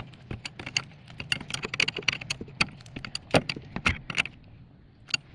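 Metal hand tools and small parts clinking and rattling in quick, irregular clicks, as during hands-on work on a car's wheel hub and steering parts; the clinks thin out near the end.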